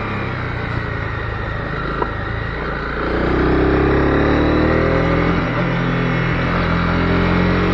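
Honda CB250R's single-cylinder engine running on the move, getting louder about three seconds in as the throttle opens, with a small click near two seconds.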